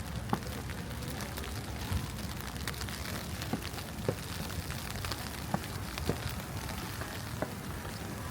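Snowy city street ambience: a steady wet hiss with a low rumble beneath and scattered soft ticks and clicks.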